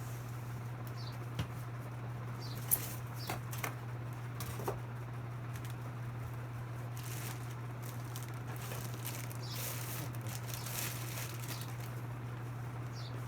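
Packaging rustling with scattered light knocks and clicks as parts are handled out of a box, over a steady low hum.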